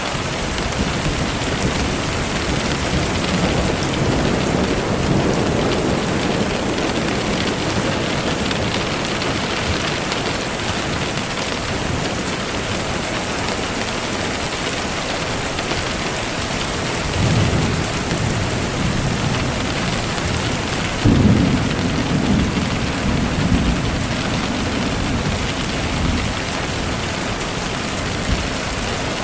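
Steady rain falling, with low rumbles of thunder swelling up a few seconds in, again about 17 seconds in, and loudest about 21 seconds in.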